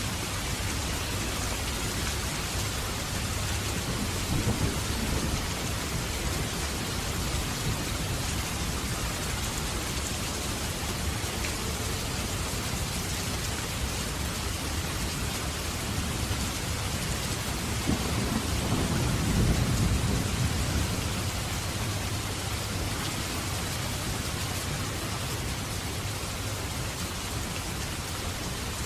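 Steady rushing hiss like heavy rain, with a low rumble swelling briefly about two-thirds of the way through.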